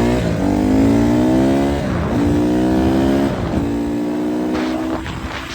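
Honda CRF150R dirt bike's four-stroke single-cylinder engine accelerating hard through the gears. The revs climb and drop sharply at each of about three upshifts, then hold fairly steady near the end.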